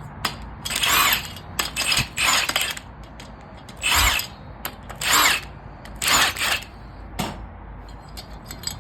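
Hand-held power tool run in short bursts, about five of them, with small clicks and clatter between, as bolts are taken out during an engine teardown.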